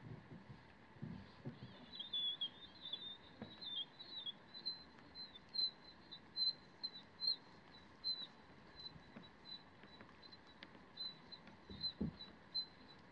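Faint, high, thin chirping of a small bird: a short warble, then repeated brief chirps at one pitch. A few soft knocks from the small boat, the loudest near the end.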